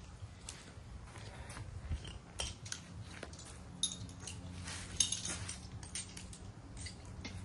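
Irregular light metallic clicks and clinks, like hand tools and small metal parts being handled and set down, over a faint steady low hum.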